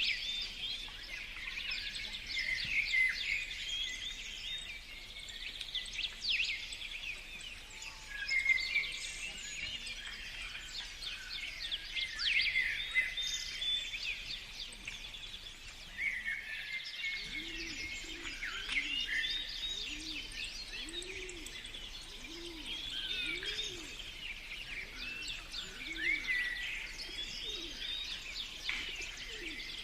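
Several songbirds singing and chirping at once, a busy overlapping chorus of high trills and calls. About halfway through, a low hum that rises and falls joins in, repeating roughly once a second.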